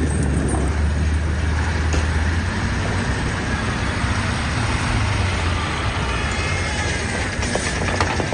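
Heavy diesel trucks running hard while towing a stranded truck through snow: a steady, loud, low engine rumble with a broad noise over it.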